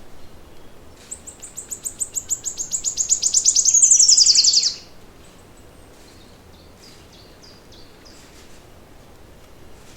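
A songbird singing one long trill of rapid high notes that grows louder and quickens over about four seconds; the last notes drop in pitch before it stops abruptly. Fainter short chirps follow.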